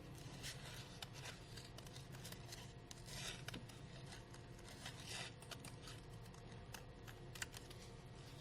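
Scissors cutting crepe paper: faint scattered snips of the blades with a few short rustles of the paper.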